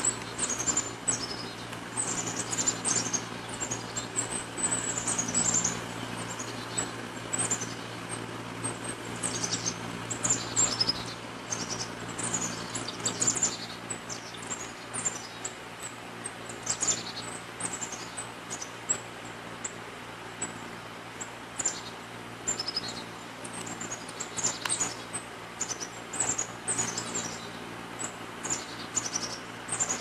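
Small songbirds chirping: many short, high chirps that fall in pitch, often in quick runs, over a steady low hum.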